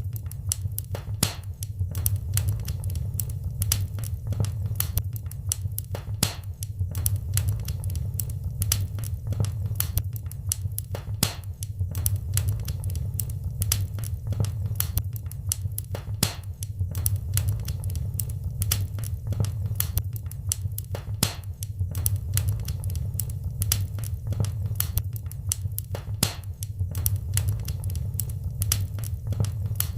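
Wood fire crackling in a fireplace: many irregular sharp pops and snaps, several a second, over a steady low rumble.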